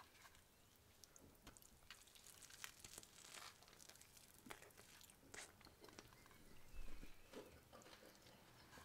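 Faint crunching of a toasted sardine sandwich being bitten and chewed, a scatter of short crisp crackles from the toasted bread.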